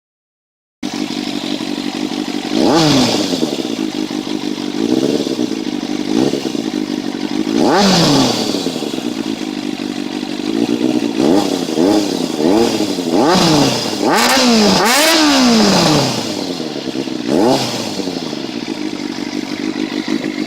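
Motorcycle engine idling through its exhaust and revved again and again, each throttle blip falling back to idle. There are single revs early and late, and a run of quick blips in the middle.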